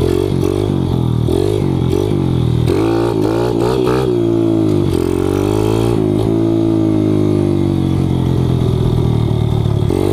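Kawasaki KLX110 pit bike's single-cylinder four-stroke engine, bored out to 165 cc and running an FMF exhaust, being ridden. The engine note rises and falls quickly with the throttle, then holds a steadier, higher note from about five seconds in.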